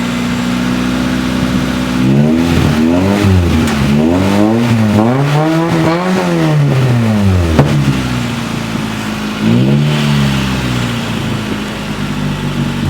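Honda Integra four-cylinder engine running with its exhaust unbolted and dropped, so it runs open with a deep, throaty sound. It idles, is revved in a quick series of blips and one longer rev in the middle, settles back to idle, and is revved once more about ten seconds in.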